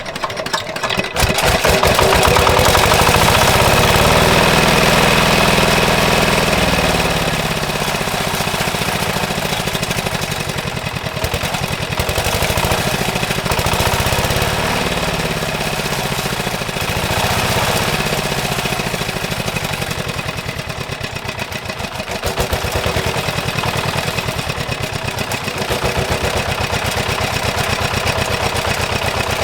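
Diesel engine running with a rapid steady pulse, its speed rising and falling at times.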